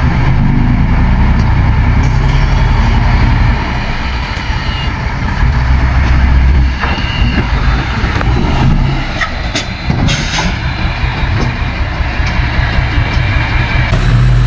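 Heavy diesel earthmoving machinery running, a deep, steady engine rumble, with a few sharp clanks and squeaks about nine to ten seconds in.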